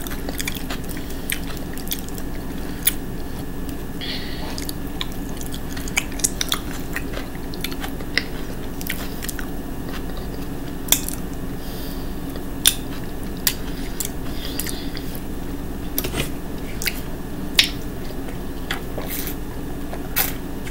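A person chewing and smacking their lips close to the microphone while eating, making irregular wet clicks and smacks, several a second at times, over a steady low hum.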